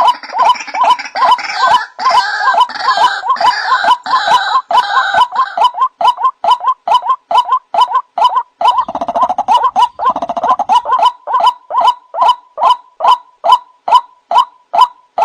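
White-breasted waterhen (ruak-ruak) lure call: a steady run of short repeated 'kwak' notes, about three a second. A busier gurgling chorus lies over them for the first five seconds and again around nine to ten seconds.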